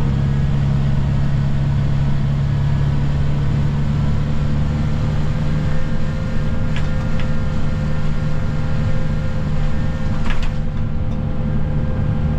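Snow plow vehicle's engine running with a steady drone, with a few brief clicks about seven and ten seconds in.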